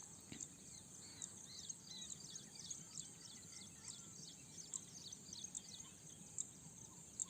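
Faint background ambience with many short, high chirps, like small birds calling, scattered throughout over a low steady hiss.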